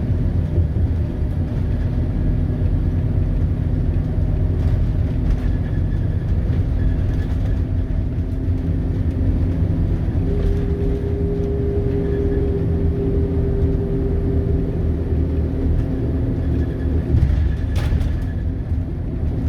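Scania DC9 five-cylinder diesel engine of a Scania K280UB bus running steadily, a continuous low drone. A clearer higher tone joins in about halfway through and fades a few seconds later.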